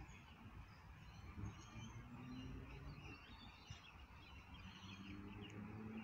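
Faint outdoor ambience: scattered short bird chirps, distant and quiet, over a low steady rumble.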